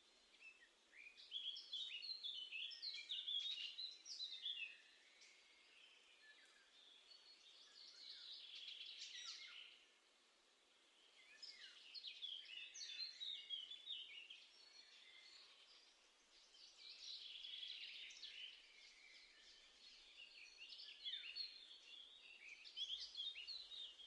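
A songbird singing, about five short phrases of quick, varied high notes with brief pauses between them.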